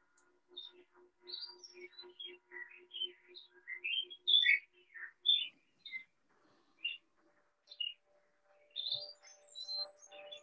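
Birdsong: many quick, high chirps and whistled notes, loudest about four to five seconds in. Under it a soft low note pulses about four times a second for the first half, and held music tones come in near the end.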